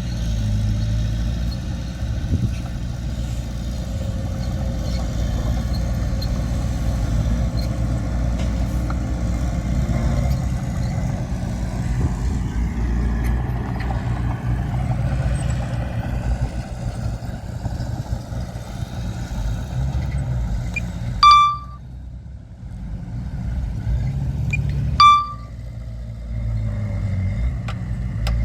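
Heavy earthmoving machinery's diesel engine running steadily with a low rumble. Near the end two short, loud horn toots about four seconds apart, the engine dropping quieter after each.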